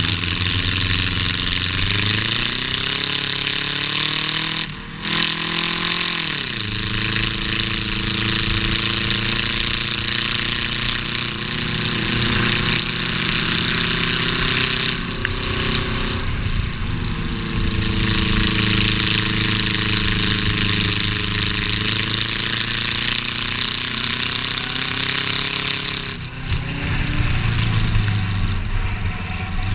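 Race car engine heard from inside its stripped cabin, run hard with a constant rattle and rush of wind and road noise. The revs climb over the first few seconds and the throttle is briefly lifted about five seconds in and again near the end.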